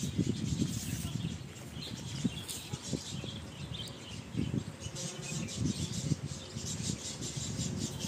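Small birds chirping a few times in the first half, over a steady low rumbling noise.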